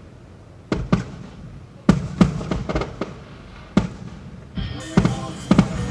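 Fireworks display shells bursting overhead: a run of about eight irregularly spaced bangs, several close together in the middle. Music starts up faintly under them near the end.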